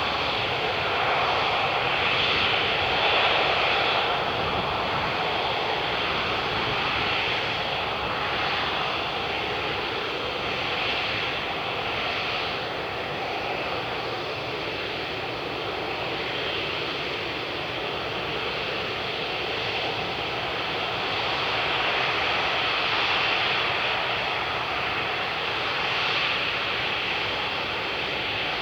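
Emirates Airbus A380 jet engines, a steady rushing roar that swells and fades only slightly.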